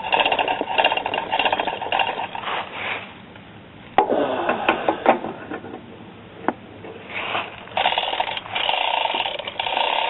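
A mechanical lift raising a lawn tractor, making a fast rattling, ratcheting noise in three runs of a few seconds each, with quieter pauses between them. There is a sharp click about four seconds in and another a little after six seconds.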